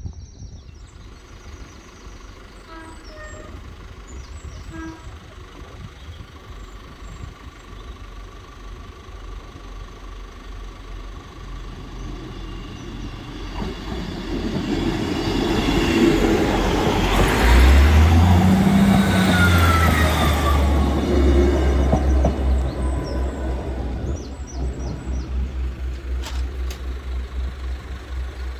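Northern Class 158 diesel multiple unit approaching and passing over a level crossing: the engine and wheel noise builds from about halfway through to a loud peak, with a falling tone as the unit goes by, then a pulsing rumble that fades as it moves away.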